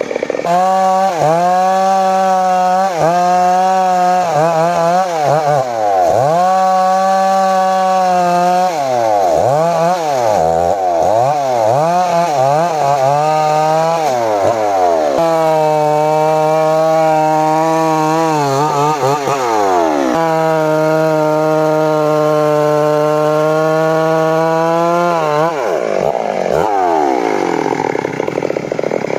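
Two-stroke chainsaw revved over and over in short throttle bursts through the first half, then held at high revs for about ten seconds of steady sawing into mahogany wood before dropping back near the end.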